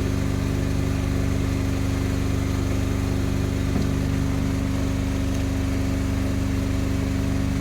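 Fishing boat's engine running steadily at an even idle, a low, unchanging drone.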